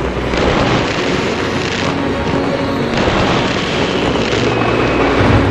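A fireworks barrage, with shells bursting and crackling in a dense, continuous roar, over music with a steady bass line.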